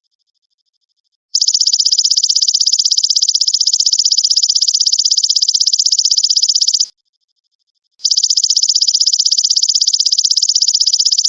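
Belalang emas (golden grasshopper) insect trilling: a loud, high, very rapid even buzzing trill that starts about a second in, breaks off for about a second near the middle, then starts again.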